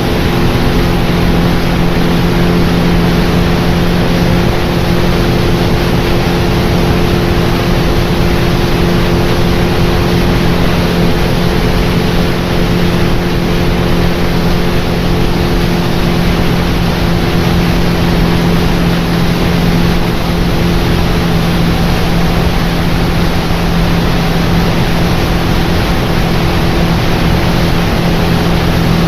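Tour boat's outboard motor running steadily under way, a constant drone over a steady rushing noise.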